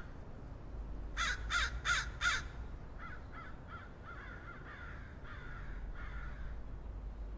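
A bird of the crow family cawing: four quick, loud caws about a second in, then a run of fainter caws.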